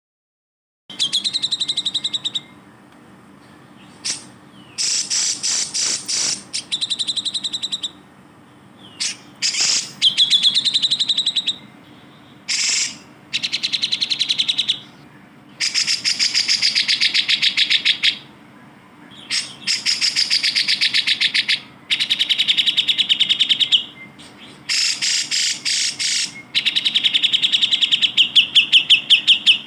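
Cucak jenggot (grey-cheeked bulbul) singing a series of fast chattering, rattling trills, each phrase one to three seconds long with short pauses between. It starts about a second in, after a moment of dead silence.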